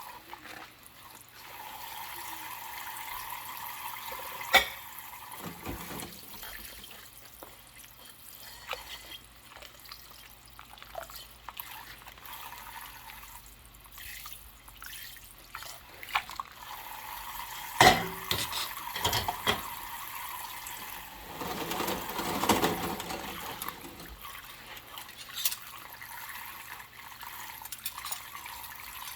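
Hand dishwashing at a sink: tap water running steadily while dishes are handled, with scattered clinks and two loud sharp knocks of dishware, a few seconds in and a little past the middle.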